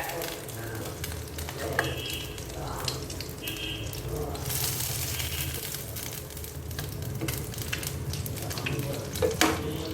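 Marinated chicken frying in hot oil in a pan, sizzling steadily while a spatula scrapes and clicks against the pan as it is stirred. The sizzle swells about halfway through, and there are a couple of sharp knocks near the end.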